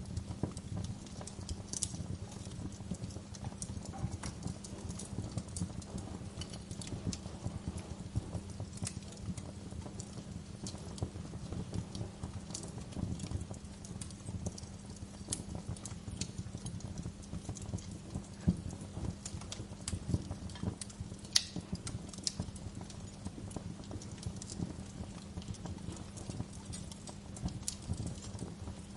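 Wood fire crackling: a steady run of small pops with a few sharper snaps, the loudest about 18, 20 and 21 seconds in.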